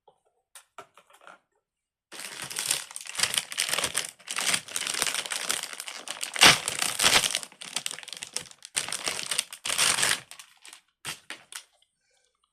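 Crinkling and rustling of plastic being handled, in quick uneven bursts for several seconds, then a few light clicks near the end.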